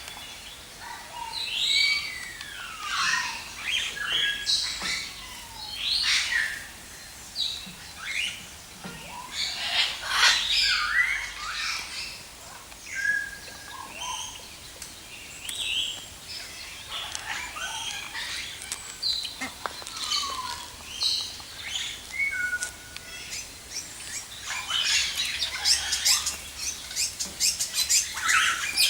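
Mixed calls of many captive birds: scattered chirps, short whistles and falling whistled notes, building to a dense chattering chorus near the end.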